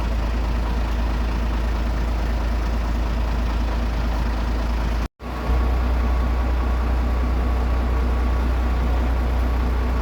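Steady low engine rumble that cuts out briefly about five seconds in, then resumes with a faint steady whine over it.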